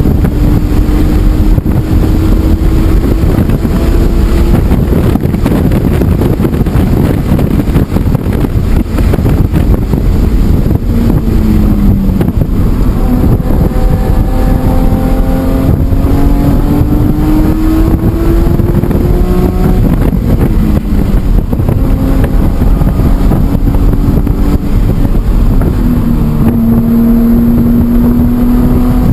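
BMW E46 M3's S54 straight-six engine running hard at track speed, its pitch climbing under acceleration and dropping sharply at several shifts or lifts, about three times, with wind buffeting the microphone.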